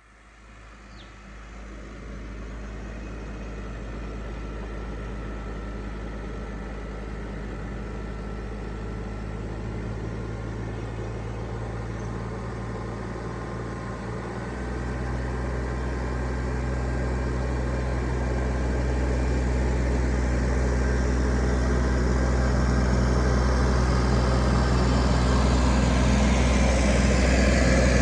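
Car engine running steadily, a low even hum that steps up in level about halfway through and grows louder toward the end.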